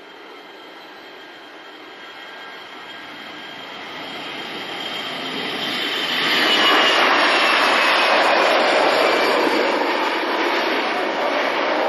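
Airbus A320-214 airliner's CFM56 jet engines passing close by. The sound builds over about six seconds to a loud peak and then stays loud, with a high whine that falls in pitch as the aircraft goes past.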